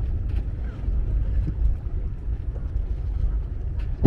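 Wind buffeting the microphone aboard a yacht at sea: a steady low rumble, with a few faint clicks.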